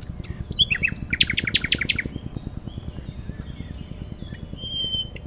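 Nightingale singing: a burst of rapid repeated notes about a second in, then a long steady whistled note near the end. Under it runs the low, rapid thudding of a Chinook helicopter's rotors.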